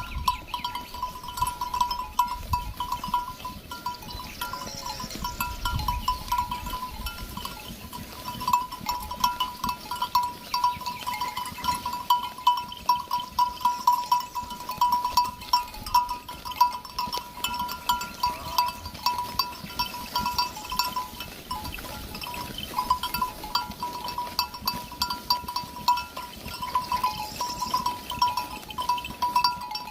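Livestock bells clinking continuously, many quick irregular strikes ringing at about one pitch, as from grazing animals on the move.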